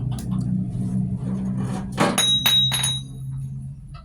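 Metal parts striking one another: a sharp clank about two seconds in, then a few quick clinks that ring on for about a second. A steady low hum runs underneath.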